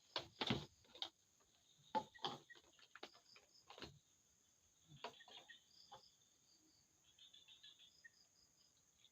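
A few sharp knocks and clatters from things being handled, loudest in the first second and again around two and four seconds in. Later, short high insect chirps sound over a steady high insect drone.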